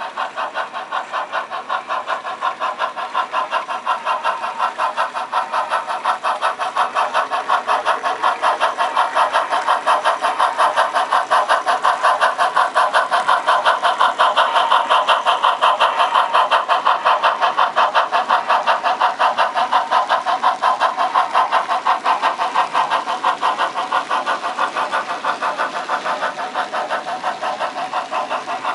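HO scale model steam locomotive's sound decoder chuffing in a fast, even rhythm, growing louder toward the middle and easing off again.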